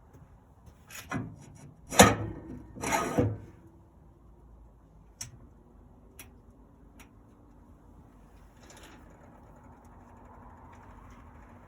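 Three loud clattering noises in the first few seconds, then a few sharp clicks, while a faint steady motor hum starts up: the Camp Chef SG pellet smoker powering on, with its fan and freshly replaced auger motor running.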